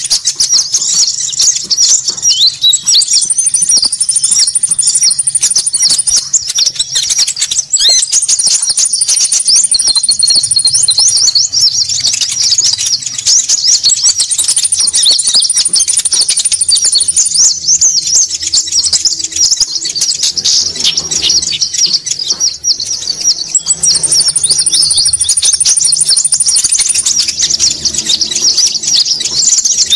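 Bird-trapping lure call of konin birds: many small birds chirping densely and without pause, a noisy chorus. A thin, high trill of about three seconds cuts in over it four times.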